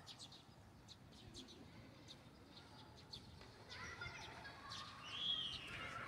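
Small birds chirping faintly, short high chirps repeated throughout. From about halfway, distant children's voices and shouts join in and grow louder.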